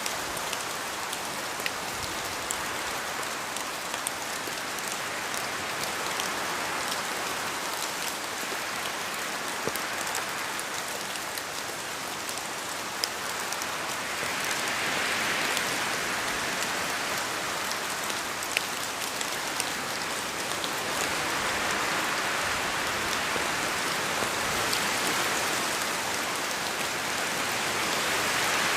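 Steady rain falling in a forest, a continuous hiss with many individual drops ticking down from the trees. The hiss swells louder a few times, about halfway through and again near the end.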